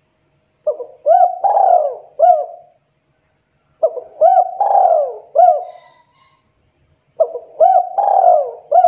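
Spotted dove cooing: three phrases of about four rounded notes each, a few seconds apart.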